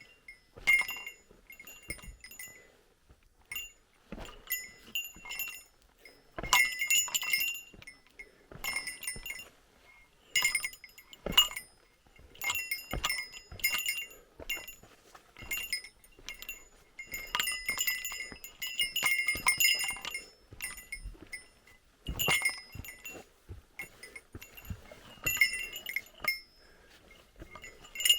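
A small metal bell jingling in repeated short bursts, roughly once or twice a second, with the same clear ringing pitches each time.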